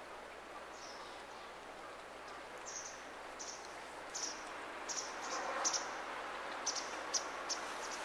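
Short, high-pitched bird chirps: one about a second in, then a run of about ten more from about three seconds in, roughly two a second, over a steady outdoor hiss.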